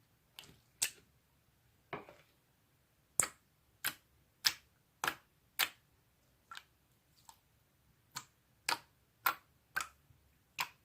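Slime being pressed and played with, giving a run of sharp pops and clicks, most about half a second apart.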